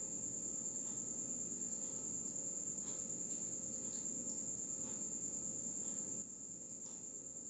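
Faint chewing of a fried banana turon, with a few soft mouth clicks, under a steady high-pitched whine.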